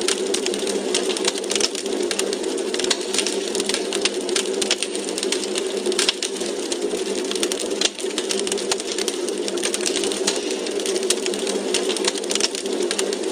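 Wood fire crackling in a fireplace: dense, irregular pops and snaps over a steady rushing hiss of the flames.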